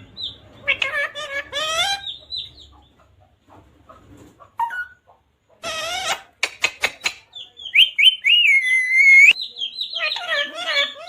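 Parrot calling: high-pitched chirps and speech-like squawks with swooping pitch, a few sharp clicks, and one long wavering whistle about eight seconds in.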